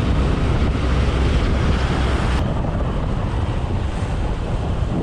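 Wind rushing over the microphone of a motorcycle-mounted or helmet camera while riding, with the low rumble of the bike and road underneath. The higher hiss falls away sharply about halfway through, as the wind eases.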